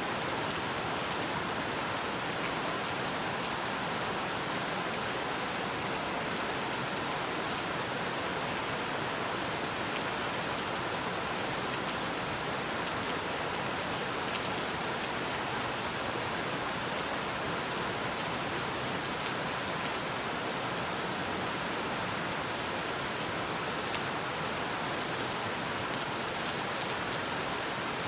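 Steady rain falling: an even hiss with scattered sharper drop sounds, unchanging throughout.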